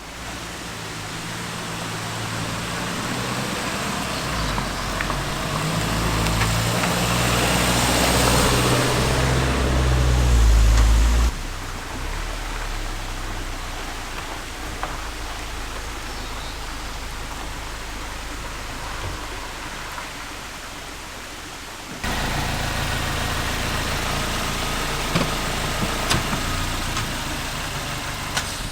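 Suzuki Jimny Sierra driving, its engine note stepping up through the gears and growing louder over the first ten seconds or so. It then cuts abruptly to steadier road and tyre noise, which jumps louder about 22 seconds in, with a few sharp clicks near the end.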